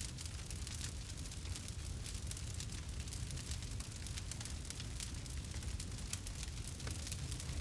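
Campfire crackling, with many small irregular pops and snaps over a steady low rumble.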